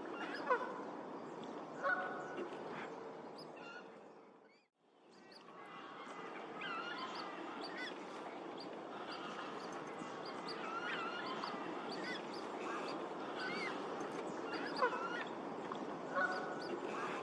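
Geese honking amid a busy chorus of waterfowl calls, many birds overlapping. The sound fades out to nothing about five seconds in and comes straight back up.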